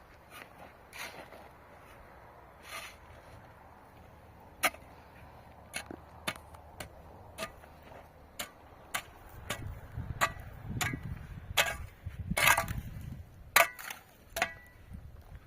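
A series of sharp, irregular knocks and taps, about one a second, some with a short ring, with a low rumble under them from about ten to thirteen seconds in.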